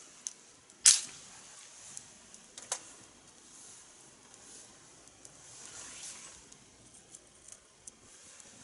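Wood fire in a fire pit with a few sharp pops, the loudest about a second in, and a soft hiss that swells and fades between them.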